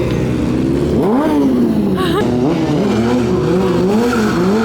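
Motorcycle engine revved up and down over and over, its pitch rising and falling about twice a second.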